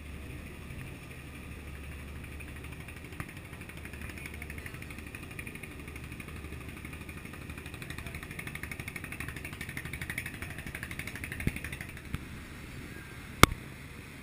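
Steady drone of a river passenger boat's engine running at cruising speed, a low hum under a hiss. A single sharp click comes about a second before the end.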